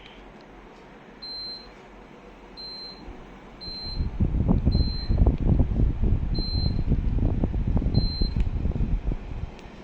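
Short, high electronic beeps repeating every second or so. From about four seconds in, a loud, irregular low rumble runs for about five seconds and then fades.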